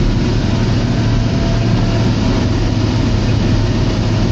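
Diesel engine of a John Deere 624J wheel loader running steadily with a deep hum while it pushes snow.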